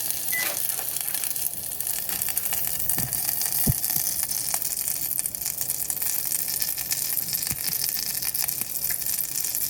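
Cicadas sizzling in butter in a small pan, a steady hiss, with a few light chopstick taps against the pan.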